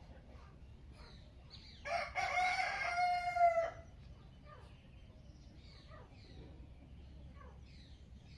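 A rooster crows once, a loud call lasting about two seconds, over faint, repeated chirps of small birds.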